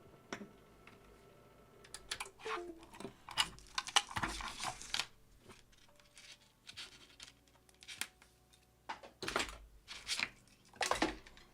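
Irregular clicks, scrapes and rustling of things being handled on a workbench, in uneven clusters.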